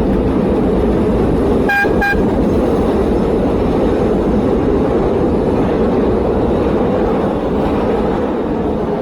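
Loud, steady rumble of traffic and riding noise. About two seconds in come two short horn toots in quick succession.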